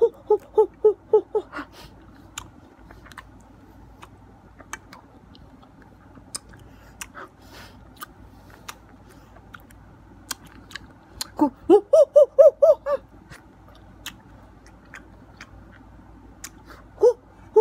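Someone eating a ripe mango with their hands: scattered wet smacking and sucking clicks of chewing. Right at the start, and louder about eleven seconds in for under two seconds, the eater lets out a rapid run of pitched ape-like 'hooh hooh hooh' grunts.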